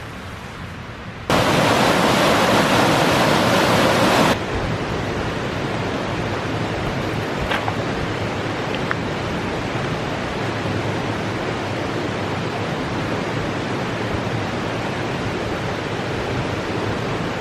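Steady rushing of a mountain stream. A louder, closer rush cuts in about a second in and cuts back out about three seconds later, then the flow holds level, with a couple of faint clicks.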